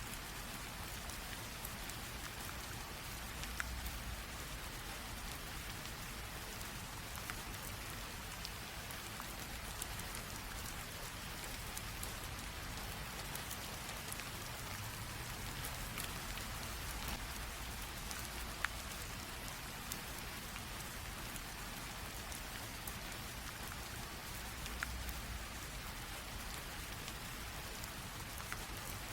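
Light rain drizzle falling steadily, an even hiss with scattered individual drops ticking on a surface.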